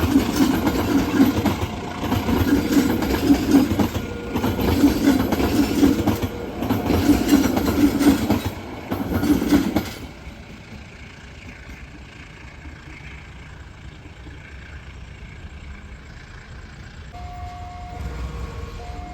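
Train passing close by, its wheels making a loud rhythmic clatter that stops abruptly about ten seconds in, leaving a quieter steady rumble. Faint steady tones come and go near the end.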